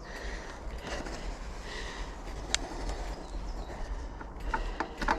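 Outdoor background noise with a steady low rumble and a few faint, sharp clicks, the clearest about halfway through.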